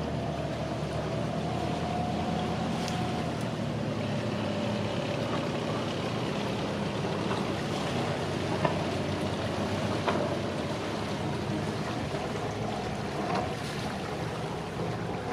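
Motorboat engine running steadily at low speed, a low even hum with a faint higher whine, and two short knocks about two-thirds of the way through.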